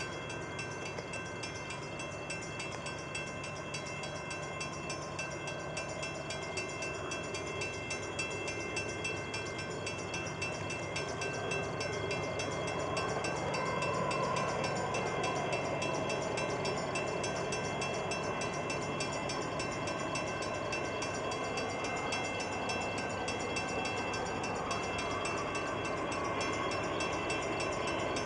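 CN freight train rolling past, a steady rumble of wheels on the rails that grows slightly louder about halfway through.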